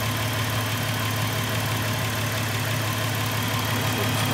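2008 Dodge Magnum's V6 engine idling steadily with the hood open.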